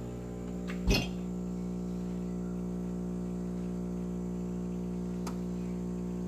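Miele CVA 4070 super-automatic espresso machine humming steadily as its pump pushes hot water through the ground coffee, pulling an espresso shot. A sharp click about a second in.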